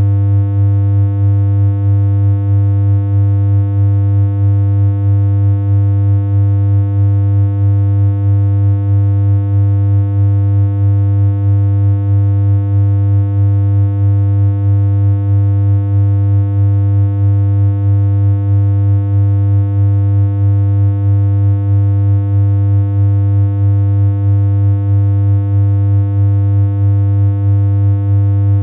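Steady synthesized electronic hum: one low, unchanging tone with a buzzy stack of overtones, held continuously with a slight regular flutter in loudness.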